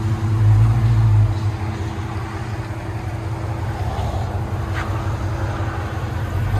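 2018 Dodge Challenger Scat Pack's 6.4L HEMI V8 idling through long tube headers, high-flow cats and Flowmaster Super 10 mufflers: a steady low exhaust rumble, a little louder for about a second near the start.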